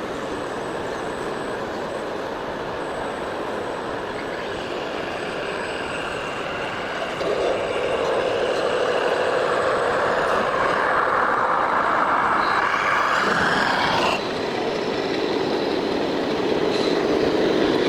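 Radio-controlled model truck or construction machine running, a steady mechanical hum. It gets louder about seven seconds in, cuts back suddenly about fourteen seconds in, then builds again.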